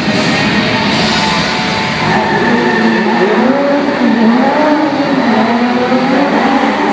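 Stunt car engines revving up and down as the cars drive, over a wide rushing noise from the gas flame effects burning along the set.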